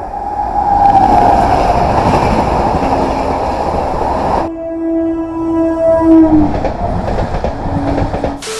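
Indian Railways trains passing at speed: the loud rush of a locomotive and coaches going by. After a sudden cut, a train horn is held for about two seconds and drops in pitch as the train passes, and a shorter, lower horn sounds near the end.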